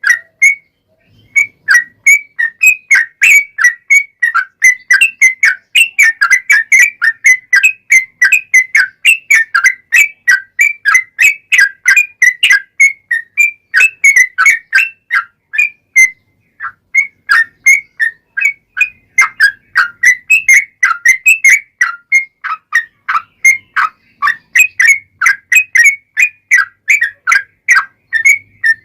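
Yellow-vented bulbul (trucukan) singing a long, unbroken run of short, chirpy whistled notes, three to four a second, with brief breaks about a second in and again about halfway through.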